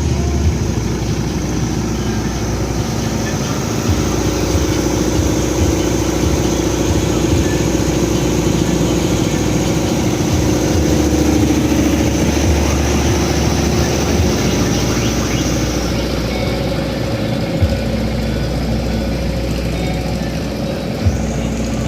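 Giant truck-mounted 'horeg' sound systems blasting a greeting together: very loud, deep sustained bass tones that change pitch every few seconds over a steady droning wall of sound.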